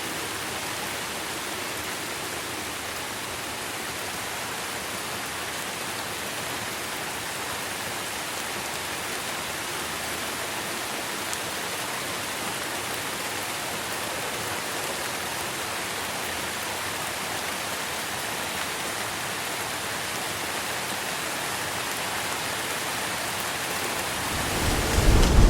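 Steady rainfall, an even hiss of rain on surfaces. Near the end a deep rumble of thunder starts.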